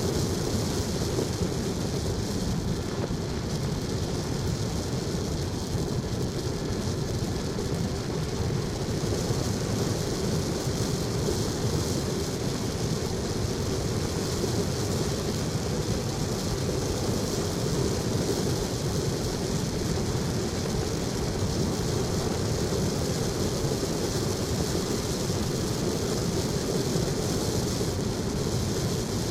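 Steady rumble and hiss of a vehicle driving, with no change in level.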